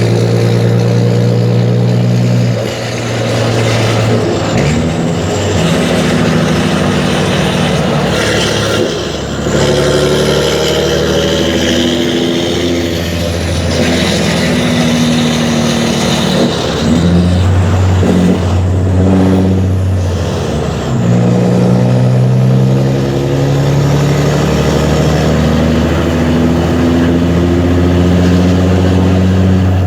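Mercedes-Benz Actros 2636's V6 diesel engine with an open straight-through exhaust, pulling under load. Its pitch climbs slowly and drops at each gear change, several times over.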